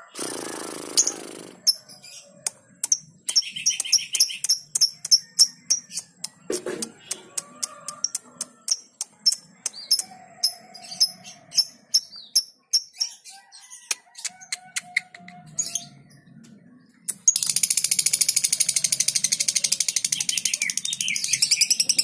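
Small birds chirping in rapid, sharp high notes, ending in a long, very fast high trill over the last few seconds.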